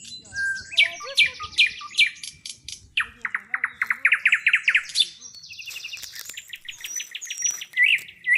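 Songbirds singing, with several overlapping songs of fast repeated chirps and trills throughout.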